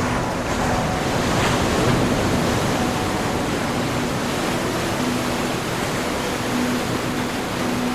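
Ocean surf washing in a continuous hiss of waves, swelling about two seconds in and then holding steady.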